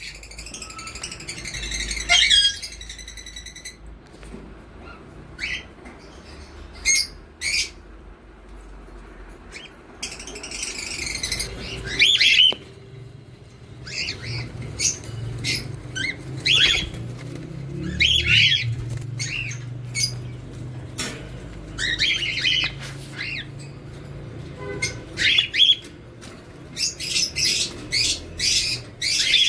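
Pet parrots calling: a string of short, sharp squawks and chirps at irregular intervals, a dense run in the first couple of seconds, some calls loud.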